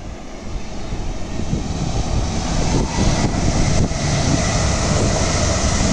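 Passenger train passing at speed on the track below: a rising rush of wheels and air that grows loud about two to three seconds in and then holds steady.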